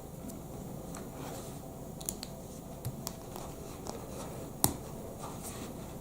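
Plastic Lego Technic pieces being handled and pressed together: a handful of scattered small clicks, the sharpest about two-thirds of the way through, over a steady low room hum.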